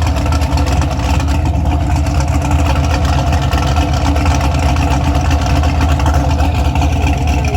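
Vehicle engine running at a steady, unchanging note.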